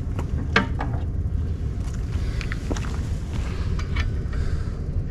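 Scattered sharp metallic clicks and clinks from tightening the outboard's propeller nut with a wrench, the loudest about half a second in, over a steady low rumble.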